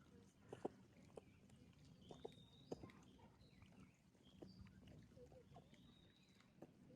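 Faint, quiet ambience: a few short, high bird calls, with scattered light knocks and clicks.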